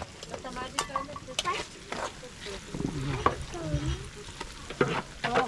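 A utensil stirring in a cooking pot, with repeated short clicks and scrapes over a steady hiss.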